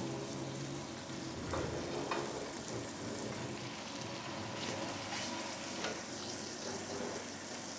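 Onion and tomato masala sizzling in hot oil in a metal pan while a wooden spatula stirs it, with a few light scrapes and taps of the spatula on the pan.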